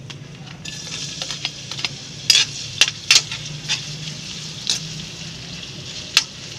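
Chopped onion, garlic and ginger sizzling in hot oil in a wok; the sizzle starts about a second in. A metal spatula stirs them, clicking sharply against the pan several times.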